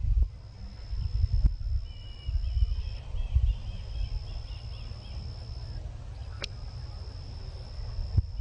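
Gusty wind rumbling on the microphone outdoors, with a steady high thin whine that breaks off now and then. A short run of small bird chirps comes about two seconds in, and a single sharp click about six and a half seconds in.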